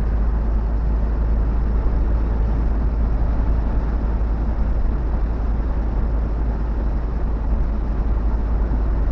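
Steady running noise heard inside a semi-truck's cab on the highway: a low diesel engine drone with tyre and wind noise over it, unchanging throughout.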